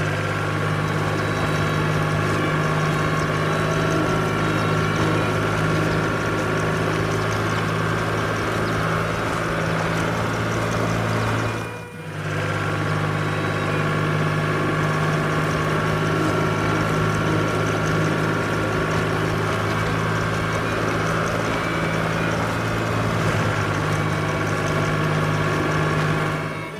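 Steady heavy-vehicle engine idling sound effect, a continuous low drone. It breaks off for a moment about halfway through and starts again.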